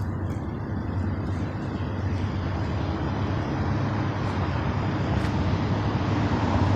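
Approaching Norfolk Southern train's diesel locomotives: a low, steady engine drone with rumble, growing slowly louder.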